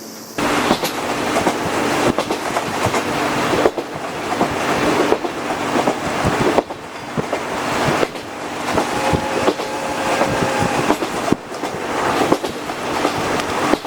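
Passenger coach running along the rails, its wheels clacking over rail joints above a steady rolling rumble. The noise starts suddenly, about half a second in.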